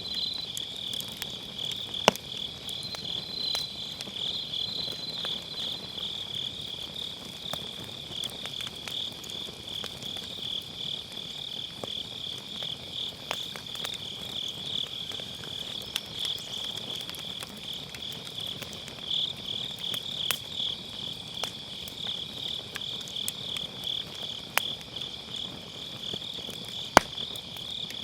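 Crickets chirring steadily in a dense, high-pitched pulsing trill, with a few sharp pops from burning firewood: one about two seconds in, and the loudest near the end.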